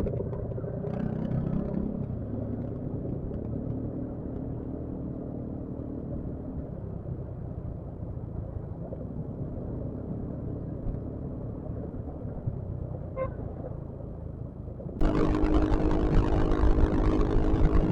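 Yamaha XMAX scooter riding along: a steady engine note under road rumble. About fifteen seconds in, the sound abruptly becomes louder and hissier.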